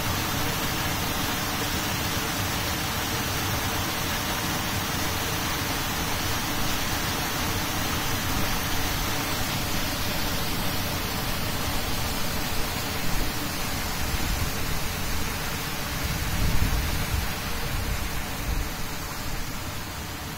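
Waterfall, a steady, even rush of falling water. A low rumble swells briefly about three-quarters of the way through.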